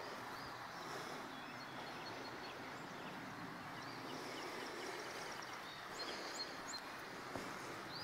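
Small birds chirping in quick high runs of notes and short rising whistles over a steady outdoor rushing hiss, with a few soft footsteps on the path in the second half.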